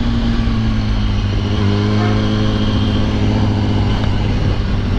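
Yamaha R1 sport bike's inline-four engine running at a steady cruising speed, its note edging up slightly a couple of seconds in, with wind rushing past the rider.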